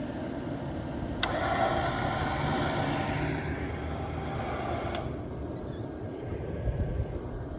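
A vehicle driving, a steady low engine and road rumble, with a rush of noise that comes in suddenly about a second in and dies away about five seconds in.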